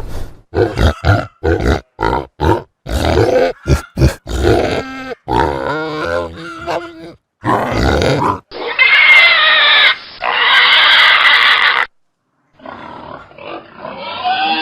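Domestic pigs grunting in a quick run of short grunts, then louder, high-pitched squealing for about three seconds. After a brief gap, quieter pig sounds come in near the end.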